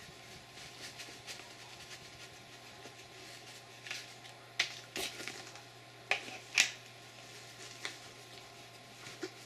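Handling of a pistol and an Advanced Armament Corp suppressor: a few sharp metallic clicks and knocks, most of them in the middle of the stretch, as the suppressor is fitted to the gun.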